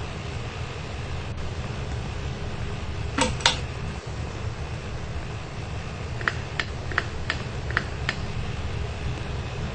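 52-inch HH&B Carmillaugh ceiling fan running with a steady low hum and whoosh. A couple of sharp clicks come about three seconds in, then a quick series of about seven light ticks around six to eight seconds in.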